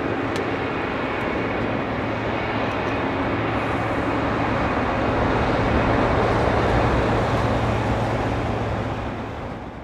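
Jet engine noise from a twin-engined Boeing 767-300ER airliner on landing: a steady rushing sound that swells slightly about halfway through, then fades near the end.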